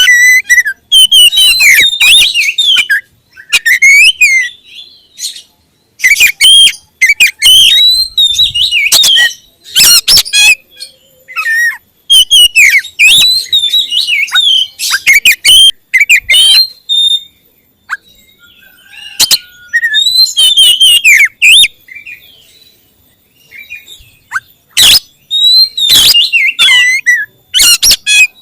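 Oriental magpie-robin (kacer) singing loudly and close, in bursts of varied whistles and quick chattering notes with short pauses between phrases.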